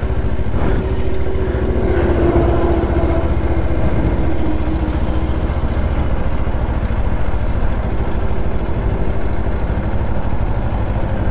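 Kawasaki Ninja 500 parallel-twin engine running under way, its steady note mixed with heavy low wind rush on the microphone; the engine pitch sags slightly a few seconds in.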